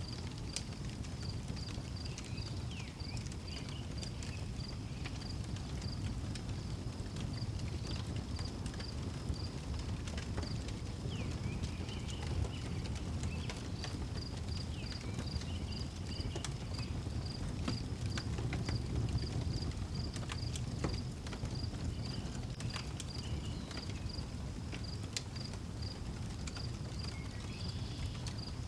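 Outdoor wood fire crackling, with scattered sharp pops over a low rumble. A cricket chirps steadily at two or three chirps a second, and birds call briefly now and then.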